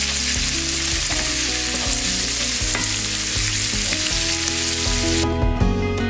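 Kale leaves and flowers sizzling in butter and olive oil in a cast iron skillet, stirred with a wooden spoon. The sizzle cuts off suddenly about five seconds in, leaving soft guitar background music.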